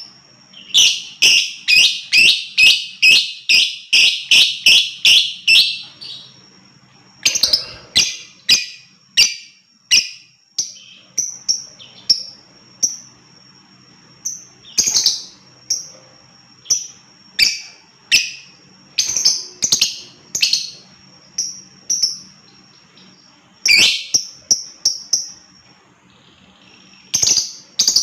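Lovebird calling: a fast run of sharp, high chirps for the first six seconds, then scattered single chirps and short clusters of chirps with brief gaps between them.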